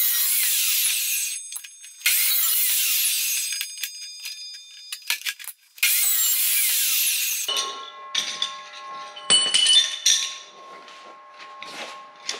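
A power tool cutting 3/16-inch steel flat bar in three bursts of a second or a few seconds each. Then the cut steel pieces clink and ring as they are handled.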